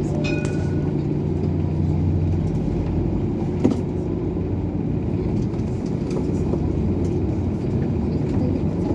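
Airport shuttle bus running with a steady low engine drone. A short pair of high tones sounds just after the start, and a single sharp knock about three and a half seconds in.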